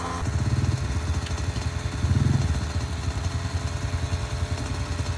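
Dirt bike engine running close by with a low, rapid pulse, swelling briefly in a short rev about two seconds in.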